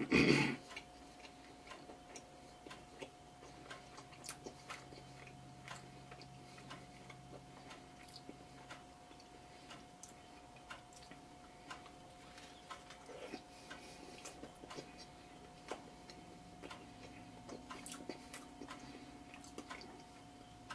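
A person chewing a mouthful of crisp-crusted pepperoni pizza: small, irregular crackles and mouth clicks, with a brief louder noise right at the start. A faint steady tone hums underneath.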